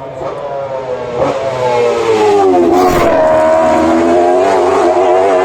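A racing sidecar outfit's high-revving engine passing close at speed: it grows louder over the first two seconds, drops in pitch as it goes by about three seconds in, then stays loud as it drives on.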